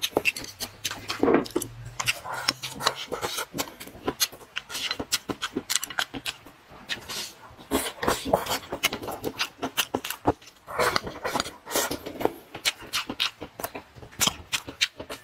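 Close-up mouth sounds of a person chewing a mouthful of spicy food: a continuous irregular run of wet clicks, smacks and crunches.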